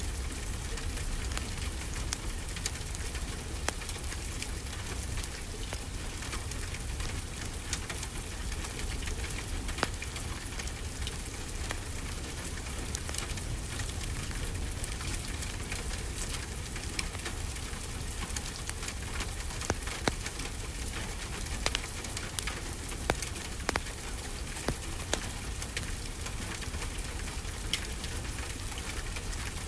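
Steady rainfall with a low rumble under it, and the irregular sharp pops and crackles of a wood fire, which come more often in the second half.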